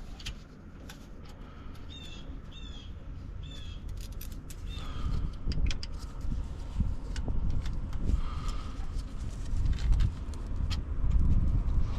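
A bird calling outdoors, several short pitched calls in the first half, over a low rumble that grows louder about halfway through and scattered small knocks.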